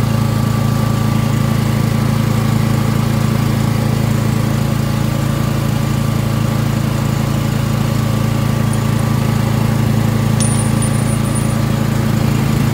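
13-horsepower engine of a service-truck air compressor running steadily at a constant speed.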